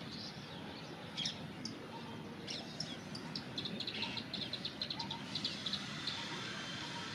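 Plain prinia singing: a few scattered high chirps, then from about halfway in a fast run of short, repeated high notes.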